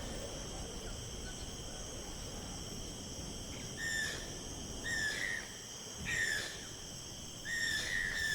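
Insects trilling steadily on several high pitches, with a short call, rising slightly at its end, repeated four times from about halfway through.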